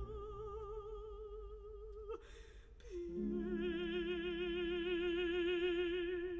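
Operatic voice holding a long note with wide vibrato, a quick breath about two seconds in, then a second, slightly lower held note over soft sustained accompaniment.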